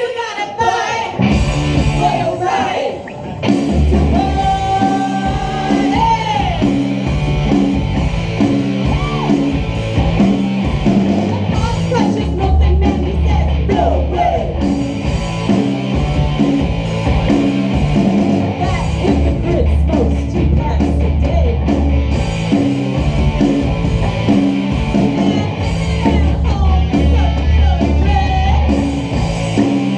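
Live rock band playing: electric guitar, bass and drums driving a steady beat, with sung and shouted lead vocals.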